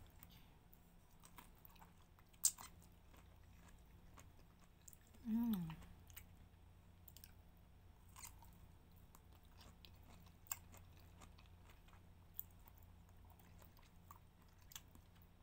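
A person quietly biting and chewing okra, with scattered sharp mouth clicks and a short falling hum about five seconds in.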